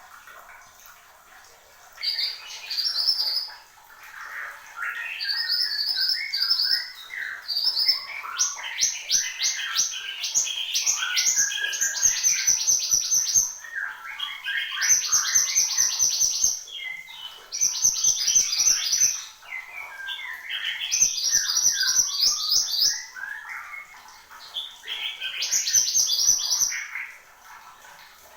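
A mantenan gunung songbird singing in full voice: phrase after phrase of fast, rapid-note trills mixed with warbled notes, with short pauses between them.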